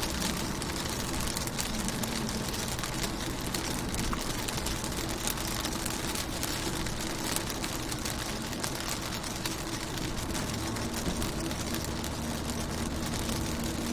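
Rain falling on a car's window and body: a steady hiss of many small drop ticks over a steady low rumble.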